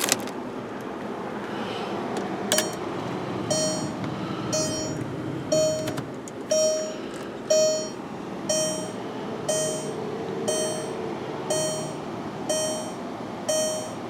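Volkswagen Beetle dashboard warning chime, dinging about once a second, with the key in the ignition before the engine is started. A couple of clicks come before it.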